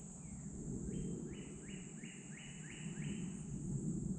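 A bird calls a quick series of about seven short, falling notes, about three a second, starting about a second in, over a steady high-pitched insect drone.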